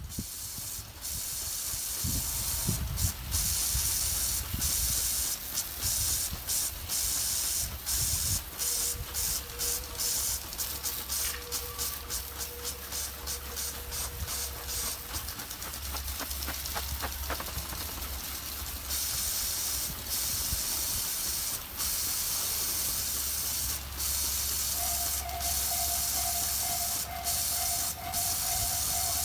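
Steady hiss with a low rumble underneath as an electric commuter train approaches slowly on snowy track. A faint steady tone sounds for a few seconds in the middle, and a faint pulsing tone comes in near the end as the train draws close.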